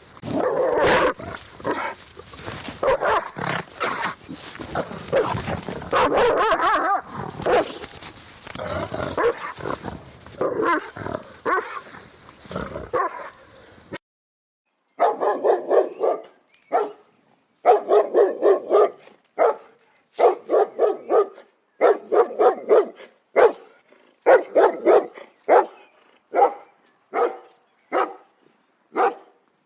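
Big dogs barking. In the first half several barks overlap continuously over background hiss; after a short silent break just past the middle, a cleaner recording follows with deep barks in quick clusters of two to four.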